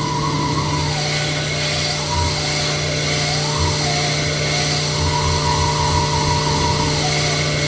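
Sunnen SV-10 honing machine running a diamond hone up and down inside an engine block's cylinder bore. A steady machine hum runs under a whine that rises and falls in pitch with each stroke.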